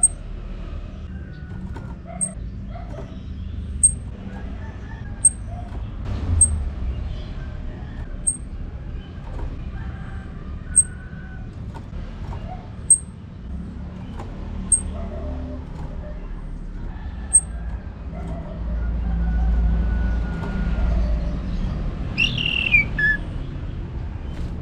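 Orange-headed thrush calling: a short, sharp, very high note repeated about a dozen times at uneven gaps, with faint bird notes in the background and a brief falling song phrase near the end, over a low rumble.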